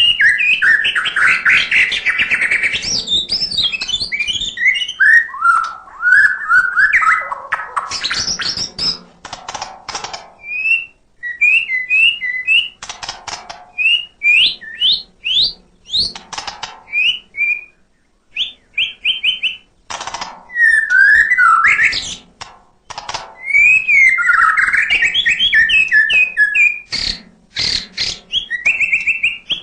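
White-rumped shama (murai batu) singing continuously: a varied run of loud whistled phrases, with quick up-slurred notes repeated in short series and harsh clicking, rattling notes between them.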